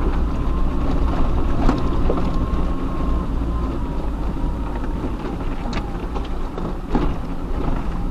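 Off-road 4x4 driving over a rough track: steady low engine and drivetrain rumble, with a few sharp knocks and rattles from the rough ground.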